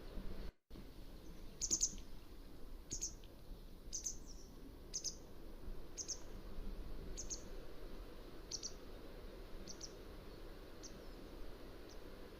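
Mountain wagtail calling: a series of short, sharp, high notes about one a second, growing fainter toward the end, over a steady low background hiss. The sound cuts out completely for a moment just after the start.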